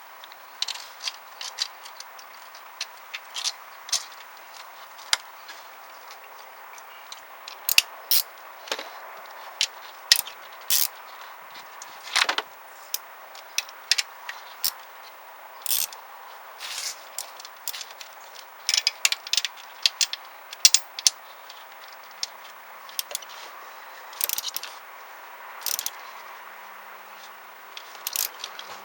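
Hand tools and metal parts clicking, clinking and scraping during engine-bay work, in irregular sharp taps with a few quick clusters.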